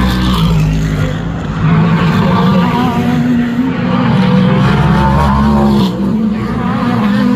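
Race car engines running at speed, loud, several engine notes overlapping and shifting in pitch as cars go by.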